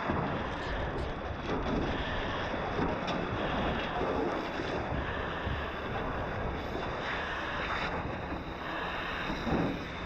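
Steady rushing noise whose loudness wavers, like air or water moving across a microphone.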